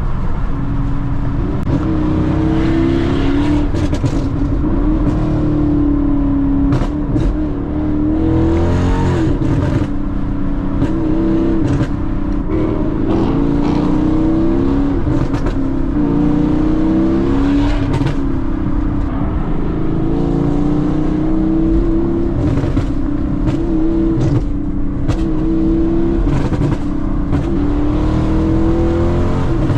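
Small car's engine and exhaust under hard driving, the engine note climbing and dropping again and again as it revs, with scattered sharp exhaust pops and burble on the overrun.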